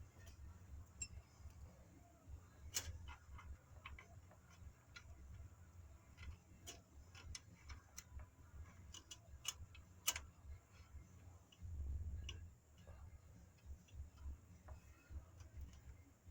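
Faint, irregular clicks and light metal taps over a low rumble: hand tools and parts being handled during work on a rear drum brake.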